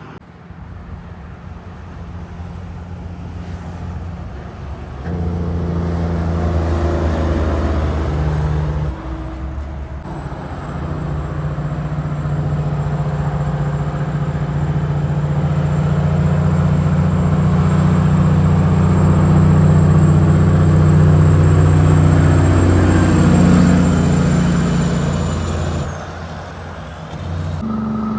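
Diesel engine of a heavy truck running as it approaches. It grows louder toward the middle, then its pitch drops as it drives past.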